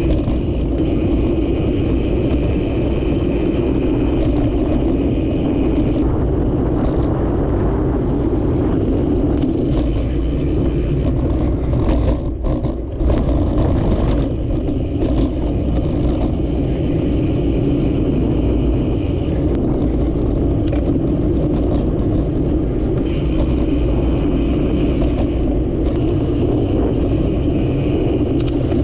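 Steady rumble of wind and rolling noise on a camera riding along on a bicycle, with a short dip about twelve seconds in.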